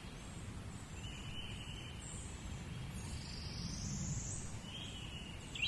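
Birds singing over a steady low outdoor rumble. The birds give several held, whistle-like notes about a second long and one rising note midway.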